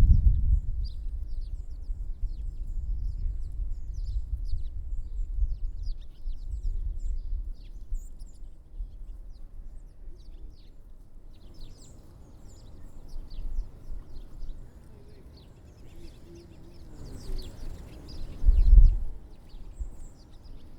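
Small songbirds chirping at a feeder: many short, high call notes scattered throughout, over a low rumble that is loudest at the start and swells briefly near the end.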